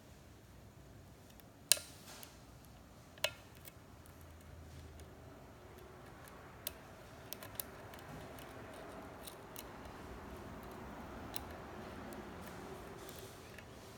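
Lock picking in a Schlage-type pin-tumbler cylinder: two sharp metallic clicks early on, then light ticks of the pick on the pins over a soft scraping as the pick works inside the keyway.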